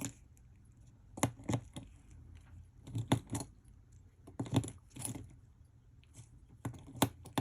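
Small metal precision screwdrivers clinking and clicking as they are picked up, tried and put down, in about five short bursts of clatter.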